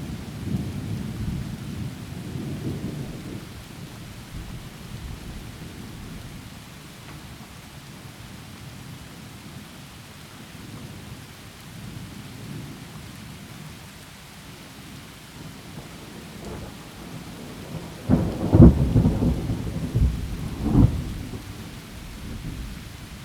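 Thunderstorm with steady rain: a low thunder rumble dies away over the first few seconds, then near the end a loud, close thunderclap cracks and rolls, with a second loud peak a few seconds later.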